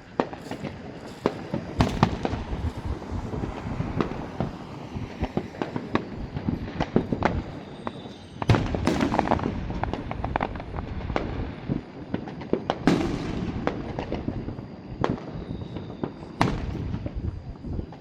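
A fireworks display going off: a dense string of sharp bangs and crackles throughout, with two bigger booms that ring on about 8 and 13 seconds in.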